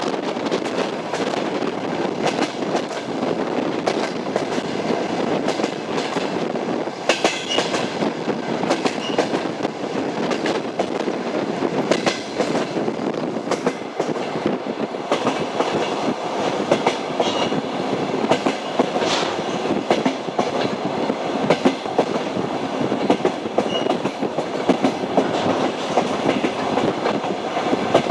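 Passenger train running along the rails: a steady rumble with the clickety-clack of wheels over rail joints, and brief high squeaks of the wheels now and then.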